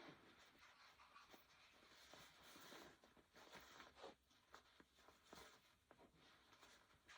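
Near silence with faint rustling and small handling ticks of baby clothes being put on a doll.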